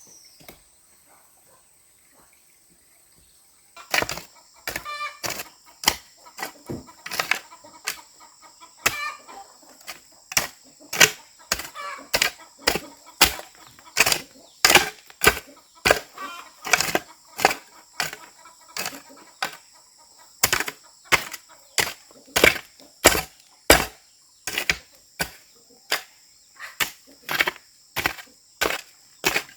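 Steady, repeated chopping strikes of a hand tool, about three every two seconds, starting about four seconds in.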